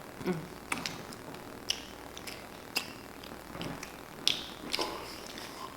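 Mouths chewing cookies: scattered wet clicks and smacks of chewing and swallowing, with a short murmur from one eater near the start.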